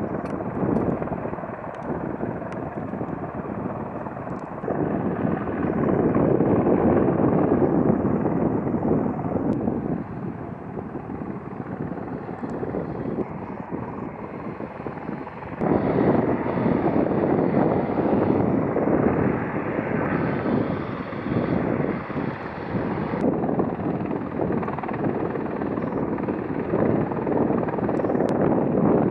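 Airliner jet engines running, a steady rushing noise that grows louder about five seconds in and again around sixteen seconds in.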